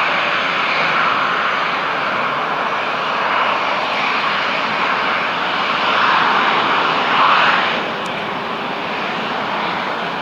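Jet noise from a Boeing 777-300ER's GE90-115B turbofans running at high thrust: a loud, steady rush that eases slightly about eight seconds in.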